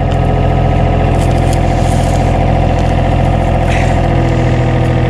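Construction machine's engine running steadily at idle while it is used to lift a heavy load.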